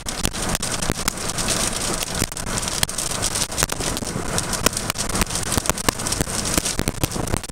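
Heavy rain pelting a vehicle, with a dense run of irregular sharp taps from the drops.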